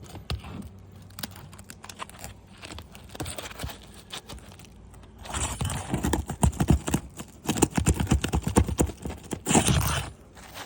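Rapid knocking and scraping of a phone being handled and shifted about on asphalt roof shingles: scattered light clicks at first, then a busy run of knocks and rubbing from about halfway through that stops shortly before the end.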